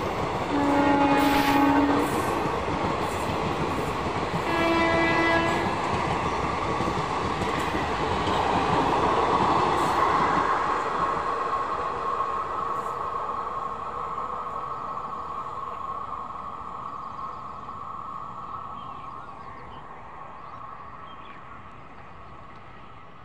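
Passenger express train running past on the track, its coaches rumbling, while a train horn sounds two blasts of about a second each, the second slightly higher, about a second and about five seconds in. The rumble then fades slowly as the train draws away.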